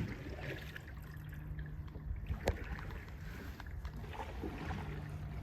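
Canoe being paddled, with faint water sounds over a steady low rumble and two sharp knocks, one right at the start and one about two and a half seconds in.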